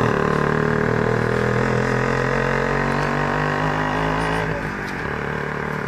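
WSK 125 motorcycle's single-cylinder two-stroke engine running at steady revs as the bike rides away, growing fainter about four and a half seconds in.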